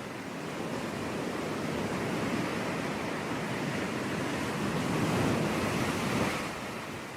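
Sea waves breaking on a beach, a steady wash of surf that swells about five seconds in and then falls back.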